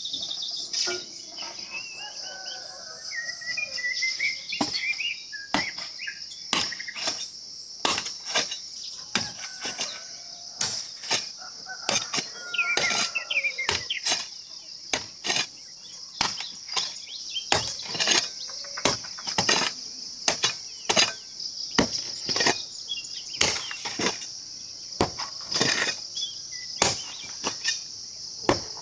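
A steady, high-pitched drone of insects with scattered bird chirps, under a run of sharp knocks or strikes at irregular intervals, roughly one or two a second.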